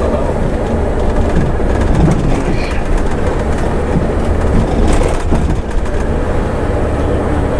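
Scania bus running at cruising speed, heard from the driver's seat: a steady low engine hum with road and drivetrain noise, and a few faint rattles.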